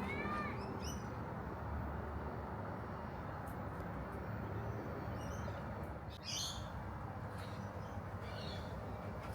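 Birds calling over a steady background hiss: a short high call at the start and a quick series of high notes about six seconds in.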